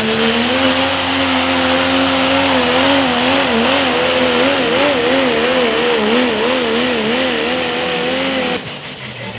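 Pro stock diesel pickup truck engine at full throttle pulling a sled: a loud, steady, high engine note that wavers rapidly up and down in pitch for several seconds, then cuts off suddenly near the end.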